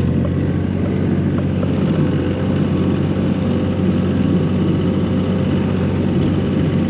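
1985 John Deere 1050 tractor's three-cylinder diesel engine running steadily while plowing snow.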